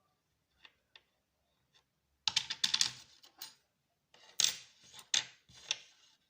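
Small hard objects being handled on a workbench: a few faint clicks, then two bursts of sharp clicking and clattering.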